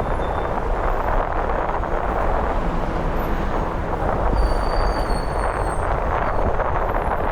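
Steady rushing noise of city traffic and wind while riding a bicycle through the street, with faint high squeals about halfway through.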